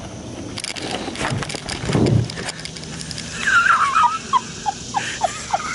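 Rustling and handling noise with a dull thump about two seconds in. Then a bird calls: a short warbling phrase, followed by a quick run of short falling notes, about three a second.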